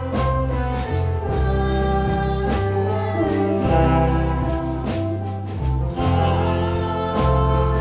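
Band music: a song with a bass line that changes note about once a second, regular drum hits and sustained pitched instrumental parts.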